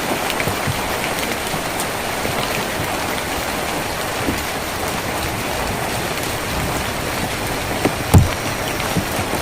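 Steady heavy rain drumming on a tin roof, with scattered drop ticks and one louder knock about eight seconds in.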